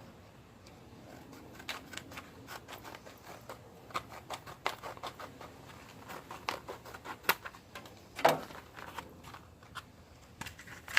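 Plastic packaging of a small parts kit being opened and handled, with irregular crinkles and clicks and a louder rustle about eight seconds in.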